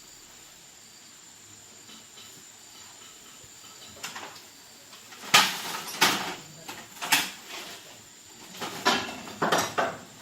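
Hard objects knocking and clattering against each other and a work surface several times, starting about four seconds in, with the loudest knock a second later; typical of tools or parts being handled on a workbench.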